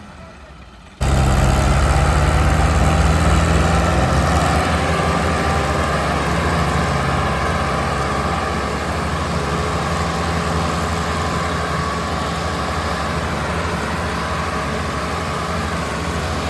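Diesel tractor engine running steadily at a loud, even pitch. It cuts in abruptly about a second in, after a quiet moment.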